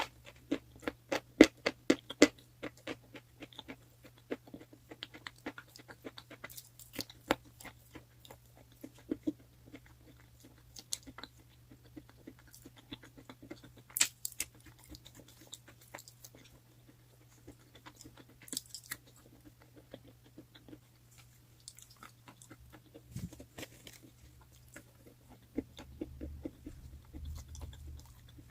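Someone biting and chewing crunchy chalk: a quick run of sharp crunches for the first few seconds, then slower, quieter crunches as it is chewed down.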